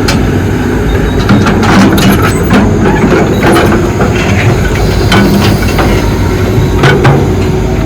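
Excavator's diesel engine running hard under load, with irregular metallic clanks and knocks as the bucket digs into dirt and stones.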